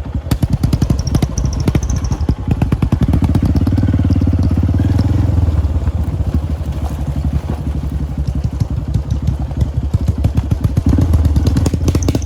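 Motorcycle engine running under way, a fast even pulsing that builds about three seconds in, eases off for a while and picks up again near the end.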